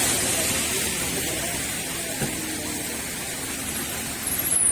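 Rain falling, a steady hiss.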